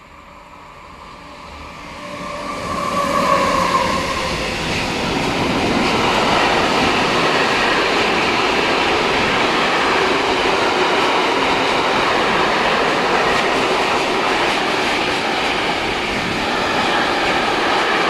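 Electric freight train passing close by. It grows louder over the first few seconds, with a whine from the locomotive that drops in pitch as it goes by, then gives way to the steady rolling rumble and clatter of the freight wagons.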